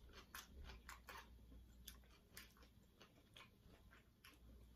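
Faint chewing and mouth clicks from people eating: a handful of soft, irregularly spaced clicks over near silence.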